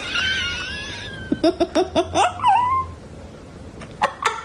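Cat meowing: a drawn-out wavering meow, then a quick run of short meows, and more short meows near the end.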